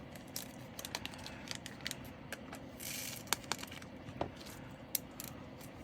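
Small plastic diamond-painting drills being handled, making scattered light clicks and ticks, with a short rustle of a plastic bag about three seconds in.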